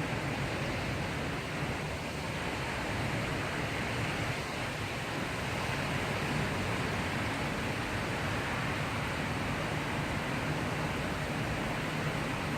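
Steady heavy rain. Beneath it runs a low steady hum.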